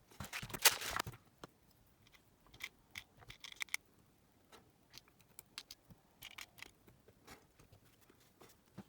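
Clicks, scrapes and light knocks of hands working on an Aiwa WR70 cassette player's small parts. A cluster of scraping lasts about a second at the start, followed by scattered short clicks.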